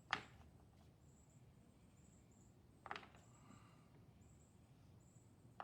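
Near silence outdoors, broken by three short, sharp sounds about three seconds apart, with a faint, broken high thin tone behind them.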